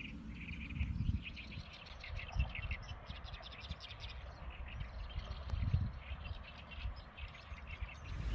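Small birds chirping in quick short bursts, over uneven gusts of wind on the microphone.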